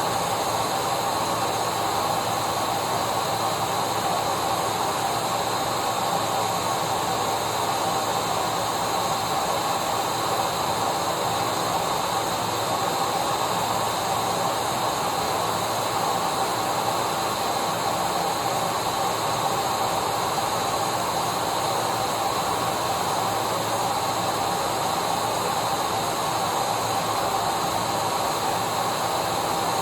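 Vacuum cleaner running steadily: a constant rush of air with a steady motor whine, unchanging throughout.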